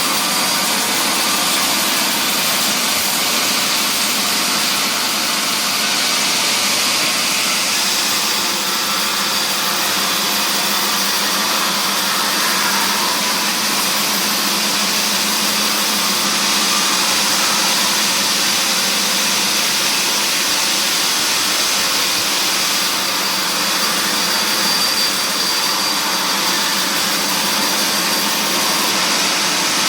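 Woodworking machinery running steadily: a loud, even mechanical whir and hiss with a faint steady whine, without pause.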